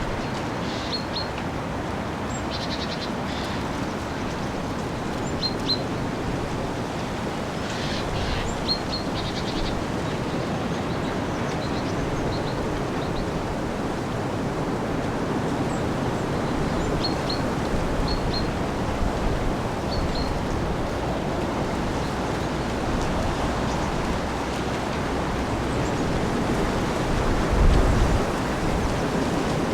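Steady noise of a storm's strong wind and rain, with small birds giving short, high, paired chirps now and then during the first twenty seconds. A low thump of wind buffeting comes near the end.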